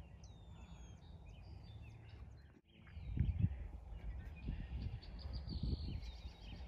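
Birds chirping and calling, including one falling whistled note near the start. From about three seconds in, irregular low rumbling gusts on the microphone come in and are the loudest sound.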